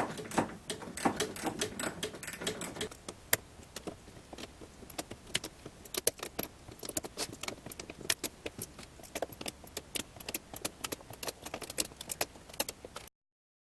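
Small metal parts and tools clinking and rattling as they are handled, in many quick irregular clicks that cut off abruptly near the end.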